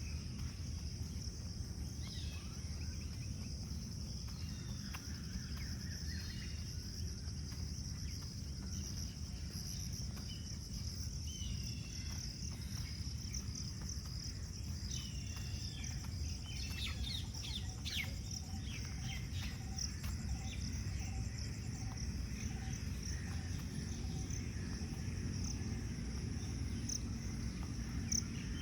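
Steady high-pitched chorus of crickets and other insects, with birds calling now and then in short gliding phrases, thickest about halfway through. A low steady rumble runs underneath.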